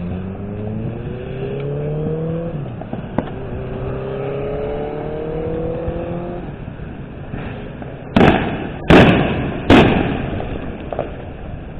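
A car engine accelerating, its pitch rising in two pulls with a drop between, like a gear change. Then three loud firework bangs, a little under a second apart, near the end.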